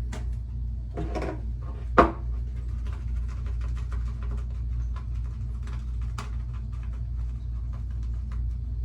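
Steady low hum with faint scattered clicks and scratches of small objects being handled, and one sharp knock about two seconds in.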